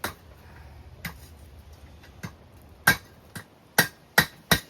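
Blacksmith's hammer striking steel on the anvil: about eight sharp, ringing metallic strikes at irregular spacing, the loudest coming in a run in the second half. A low hum underlies the first two seconds.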